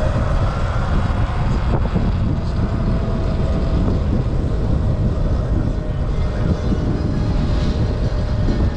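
Wind buffeting the microphone of a moving rider as a steady, heavy rumble. A thin, slightly wavering whine, typical of an electric motor, runs under it.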